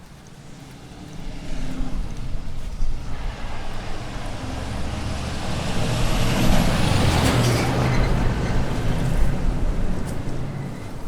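A road vehicle driving past, its engine and tyre noise building from about a second in, loudest around seven seconds in, then easing off, with a faint high whine falling in pitch as it goes by.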